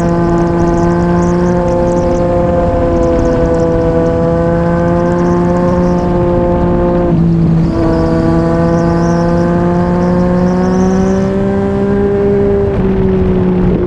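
Yamaha MT-09's inline-three engine through a Yoshimura R55 slip-on exhaust, running at steady riding revs. The note breaks briefly about seven seconds in, then climbs slowly and eases off near the end.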